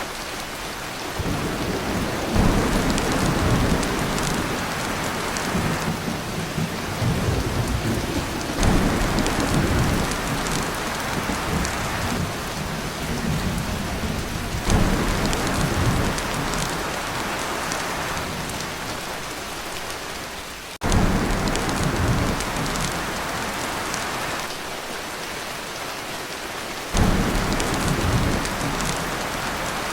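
Heavy rain drumming steadily on a tin roof, with thunder rumbling in again and again; one roll of thunder starts abruptly about two-thirds of the way through.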